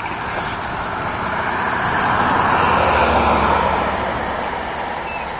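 A road vehicle driving past on the street, its noise swelling to a peak about three seconds in and then fading away.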